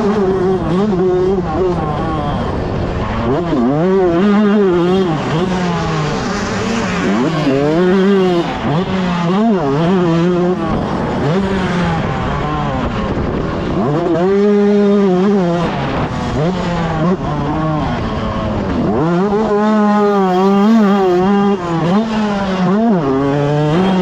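125cc two-stroke motocross bike racing, its engine revving up and falling back again and again as the throttle is opened and shut.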